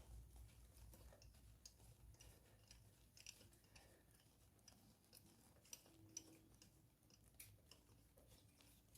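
Near silence: faint, scattered small clicks and ticks at an irregular pace.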